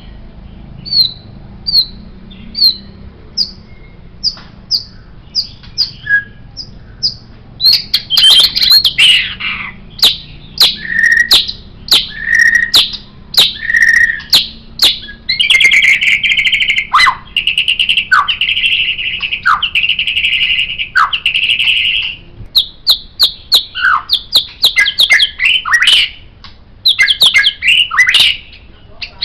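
White-rumped shama (murai batu) singing. It opens with a run of short, evenly spaced notes, about two a second. From about eight seconds in, the song grows loud and varied with sharp whistled phrases, holds a long steady buzzy trill for several seconds in the middle, and then breaks into rapid chattering notes.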